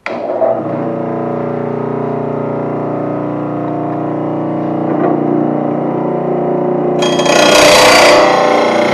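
Electric motor of a VEVOR bench lawnmower-blade sharpener switching on and running with a steady hum. About seven seconds in, a harsh grinding hiss joins it as the grinding wheel bites into a mower blade.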